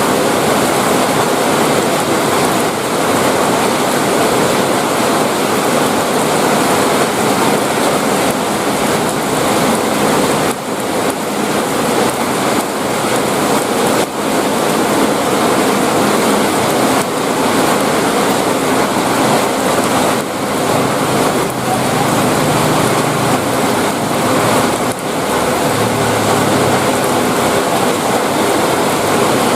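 Heavy rain pouring steadily: a dense, even hiss with no break.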